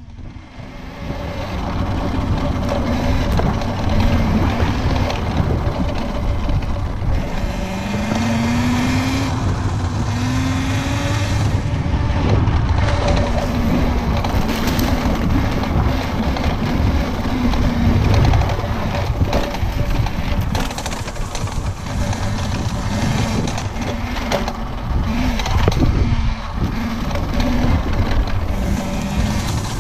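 Pit bike engine running as the bike is ridden, its pitch rising in two short revs about eight and ten seconds in, over a steady rough rumble.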